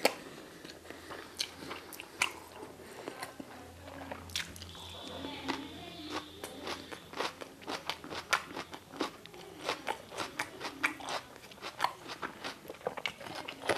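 Close-miked chewing and biting of a man eating by hand, with many sharp, irregular crunches and wet mouth clicks.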